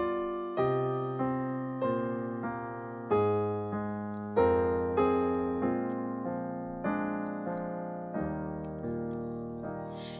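Piano playing a slow, steady series of chords, each struck and left to fade before the next, a little under two a second.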